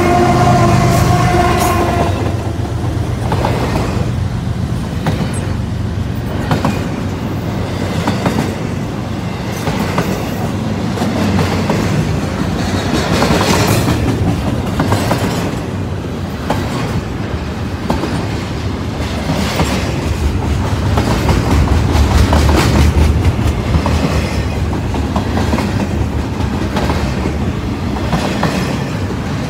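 CSX double-stack intermodal freight train passing close by. A chord of steady tones sounds as the lead locomotives go by and stops about two seconds in. The container well cars then rumble past with a constant run of wheel clicks and clacks on the rails, the rumble swelling about twenty seconds in.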